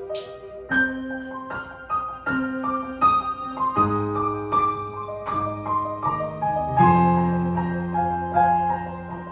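Piano sound from a digital keyboard playing a gentle introduction: a melody of single struck notes, about one every three-quarters of a second, over held bass notes and chords, with a fuller chord about seven seconds in.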